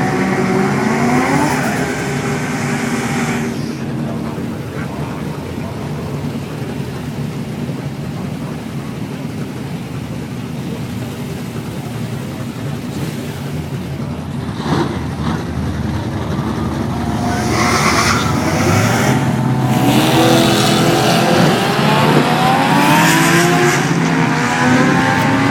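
Turbocharged Toyota 1JZ straight-six running, first revving and then settling into a steadier drone. From about two-thirds of the way through it accelerates hard and gets louder, the revs climbing again and again as it pulls through the gears.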